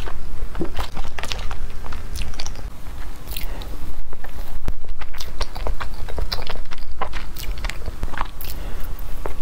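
Close-miked biting and chewing of a soft matcha Oreo towel-roll cake, a string of many short mouth clicks.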